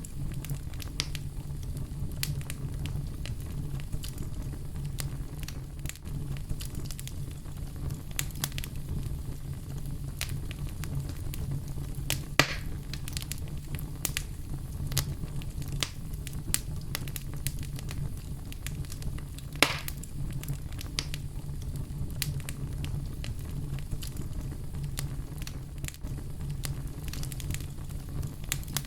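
Wood fire in a fireplace crackling, with a steady low rumble of the flames under frequent irregular pops and snaps. Two sharper pops stand out, about twelve and twenty seconds in.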